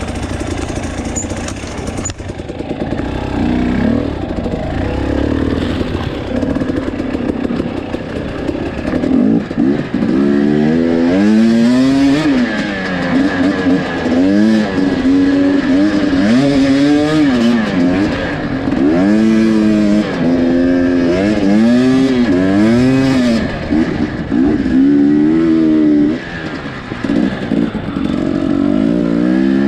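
Two-stroke dirt bike engine being ridden over rough trail, revving up and dropping back again and again as the throttle is worked, steadier and lower for the first several seconds.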